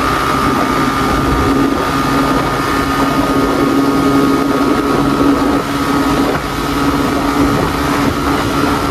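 Suzuki Gixxer motorcycle's single-cylinder engine running hard and high in fourth gear at around 100 km/h during a top-speed run, a steady drone that holds its pitch. Wind rushes over the helmet-level microphone.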